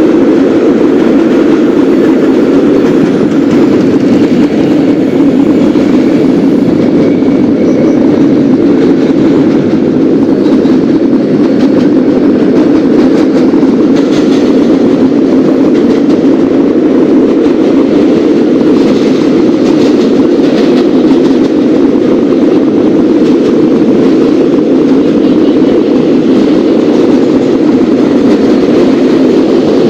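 Subway train running along the track: a loud, steady rumble.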